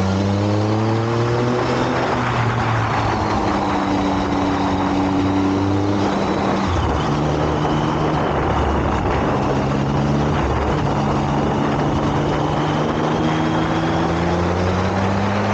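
Motorcycle engine running while riding. Its pitch climbs and drops several times as the rider accelerates and changes gear, over a steady rush of wind noise.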